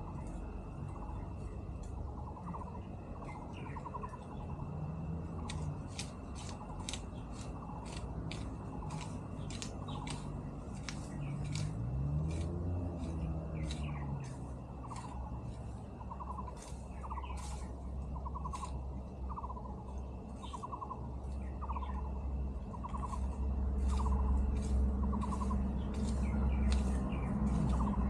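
Outdoor ambience of repeated short chirping calls, about one a second, with many sharp high clicks and a faint steady high tone over a low rumble that grows louder near the end.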